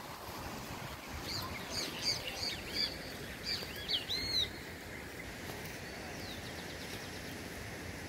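A bird calling over a steady hiss of running water: a run of short chirps that swoop up and down, starting about a second in and lasting some three seconds.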